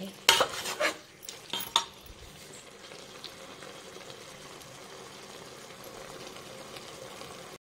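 A metal spoon scrapes and knocks against a metal pot a few times in the first two seconds as mutton boti is stirred in its masala. After that there is a steady, faint sizzle of the meat and masala frying in the pot.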